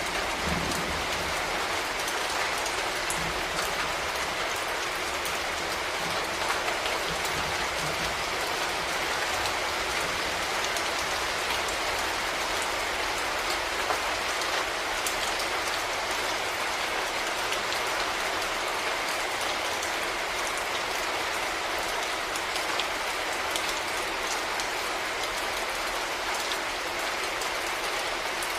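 Steady, heavy rainfall: an even hiss with scattered drop ticks. The last of a thunder rumble dies away at the very start.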